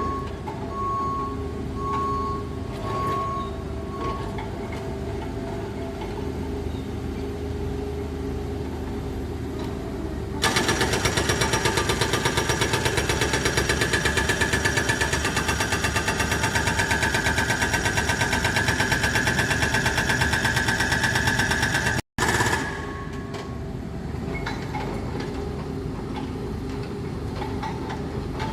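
Excavator engine running steadily, with a few short beeps in the first seconds. About ten seconds in, a rapid, loud hammering starts: the excavator's hydraulic breaker working. It runs for about eleven seconds, then breaks off suddenly, and the engine hum goes on.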